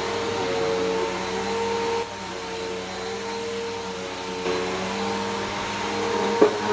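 Bissell PowerForce Helix Turbo upright vacuum cleaner running steadily on a rug. Its level drops about two seconds in and comes back up past four seconds. A single sharp click near the end is the loudest moment.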